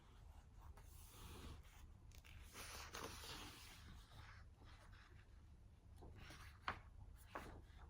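Near silence with faint rustling of something being handled, then two light taps close together near the end.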